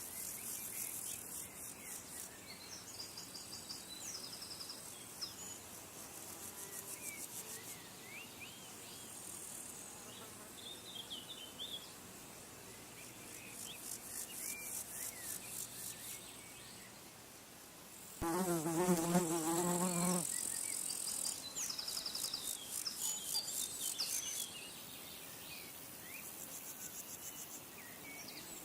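Small birds chirping and trilling high and fast, with a flying insect buzzing close past the microphone for about two seconds around two-thirds of the way in, the loudest sound.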